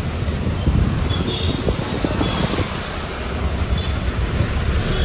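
Heavy rain and the road noise of a moving vehicle on a waterlogged street: a steady hiss over a low, jolting rumble.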